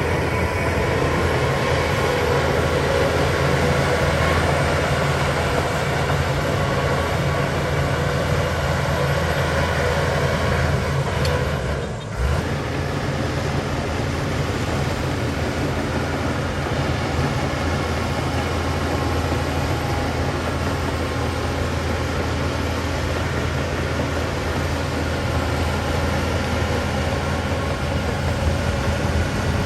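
Heavy diesel engine of a Shantui DH17 bulldozer running steadily under work, dipping briefly about twelve seconds in.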